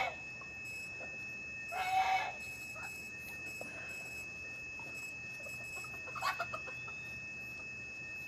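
Chickens clucking, with a louder squawk about two seconds in and a few short calls around six seconds.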